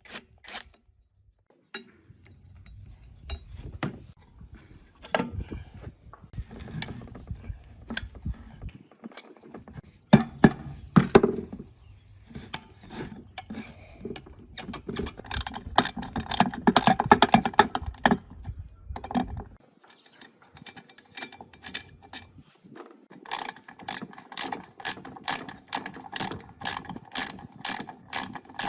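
Hand tools working on metal machine parts: clinks and scrapes of metal, then near the end a run of even, rapid clicks like a ratchet wrench turning.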